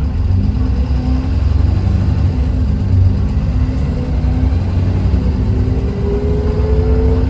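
Dennis Trident 2 double-decker bus's diesel engine running under way, a steady low rumble, with a whine that rises in pitch over the last second or so.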